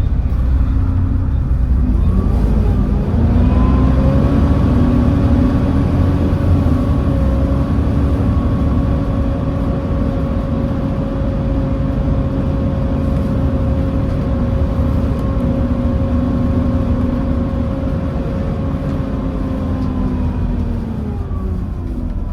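Volvo B7TL double-decker bus heard from on board, its Volvo D7C diesel engine and ZF Ecomat gearbox pulling the bus along with a heavy low rumble. A steady whine rises in pitch about three seconds in, holds, and falls away near the end.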